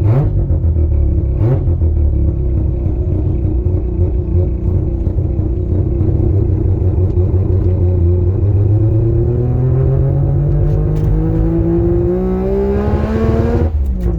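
Mazda RX-8's two-rotor Wankel rotary engine under way: it runs at a steady note, then pulls with its pitch rising steadily for about six seconds, and drops suddenly near the end at a gear change.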